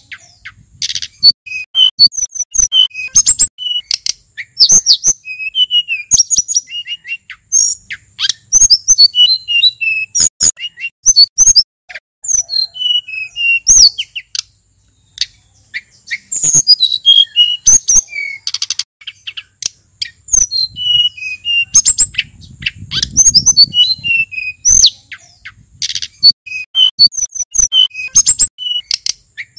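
Male sulingan gunung singing a rapid, varied stream of high chirps and whistles, with a short pause about halfway through.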